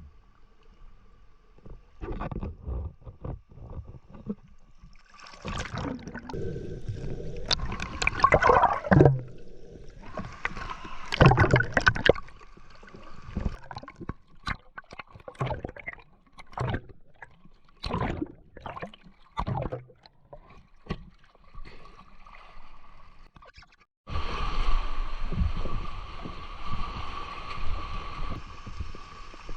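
Water splashing and sloshing in irregular strokes around a camera while swimming in the sea, with a sudden change to a steadier rush of water near the end.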